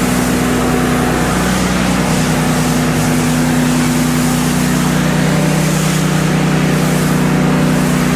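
Pressure washer engine running at a steady pitch, with the hiss of water spray over it.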